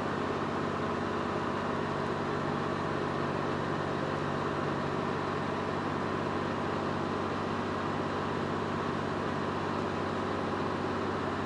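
Mitsubishi Fuso Super Great truck's 6R20 inline-six diesel running steadily, with an even low drone.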